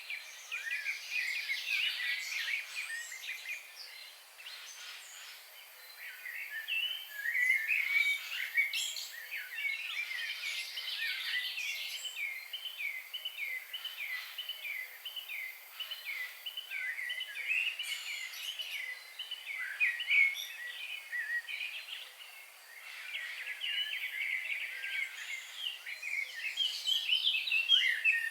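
Several songbirds chirping and singing over one another in high, quick notes. Through the middle runs a long series of rapid, repeated down-slurred notes, and the singing eases off briefly about five seconds in and again past twenty seconds.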